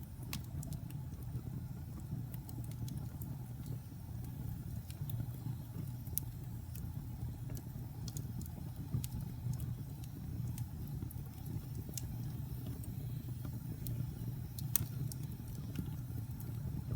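Wood fire burning in a fireplace: a steady low rumble of flames with scattered sharp crackles and pops, one louder pop about six seconds in and another near the end.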